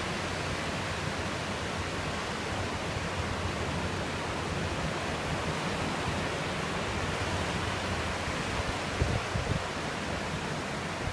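Steady rushing wash of ocean surf on the beach, with a few brief low thumps about nine seconds in.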